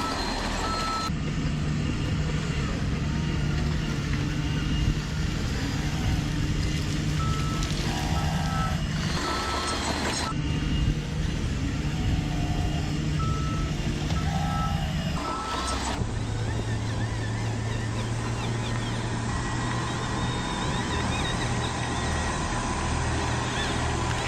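Radio-controlled construction trucks running, with a steady low engine-like drone and stretches of evenly spaced reversing beeps. The sound changes abruptly a few times.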